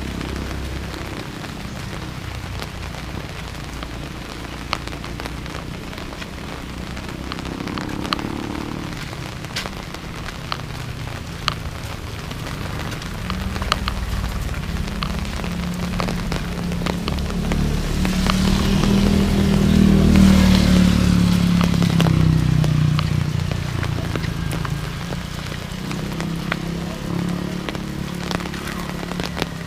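Steady rain falling, with many single drops ticking sharply close by. The sound swells louder for a few seconds about two-thirds of the way in, then eases back.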